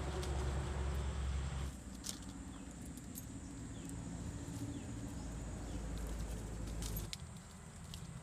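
A low, steady engine hum with a few light clicks; it drops in level about two seconds in and again near the end.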